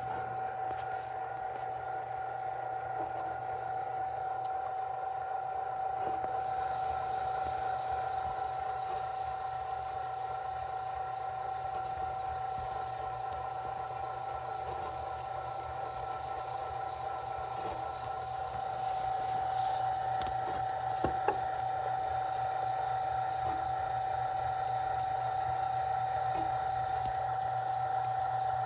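Extreme Tumbler Rebel 17 rock tumbler running, with a steady high whine over a low motor hum and scattered light clicks. It grows a little louder past the middle, with a couple of sharper clicks. The owner thinks the noise is the barrel's edge rubbing on the plastic guides on the drive shaft.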